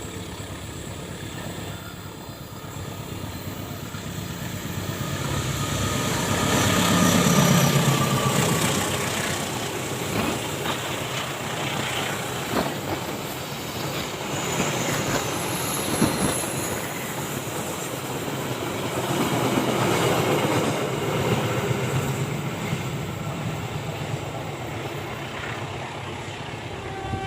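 KA Taksaka passenger train passing close by. The locomotive's engine builds to its loudest about seven seconds in, then the wheels click over the rail joints as the coaches go by, and the sound eases off toward the end.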